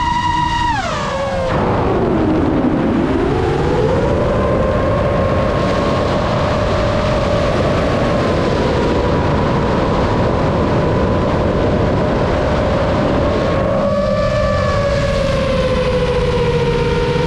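RC airplane's motor whining over wind rush. About a second in the pitch falls steeply as the throttle comes back, then climbs again and holds steady, and it shifts once more near the end.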